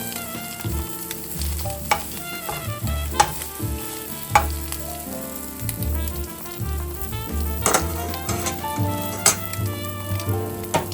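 An egg frying in a hot pan, sizzling steadily, with a few sharp clicks of a utensil against the pan. Background music plays alongside.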